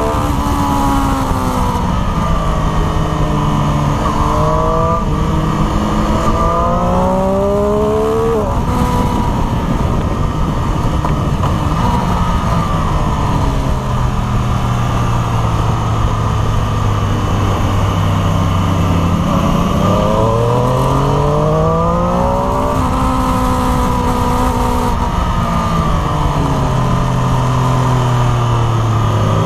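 Triumph Street Triple RS's 765 cc inline-three engine pulling through the gears: the revs climb and drop back sharply at each shift several times, settle to a lower, steadier note for a few seconds in the middle, then climb again. Steady wind rush runs underneath.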